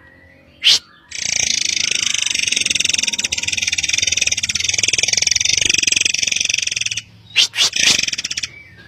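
Murai air bird calling: a sharp single note, then a long, very fast buzzy trill of about six seconds, then a few sharp separate notes near the end.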